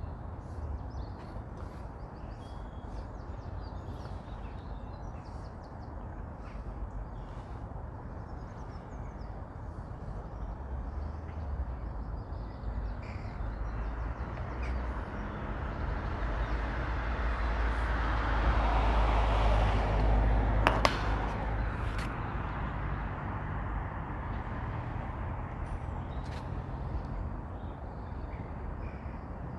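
A vehicle passing by: its noise swells gradually to a peak about two-thirds of the way through and then fades away, over a steady low rumble, with a couple of sharp clicks near the peak.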